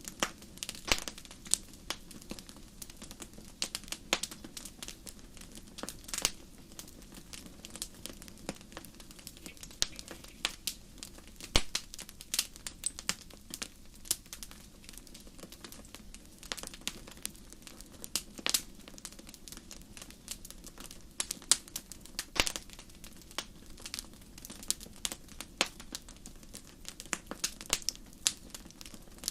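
Campfire crackling: wood popping and snapping in irregular sharp clicks, some louder than others, over a soft steady hiss of the fire.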